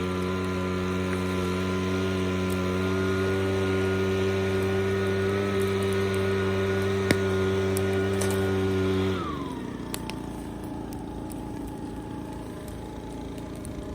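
An engine running at a steady speed, then dropping in pitch and dying away about nine seconds in, leaving a steady rushing noise.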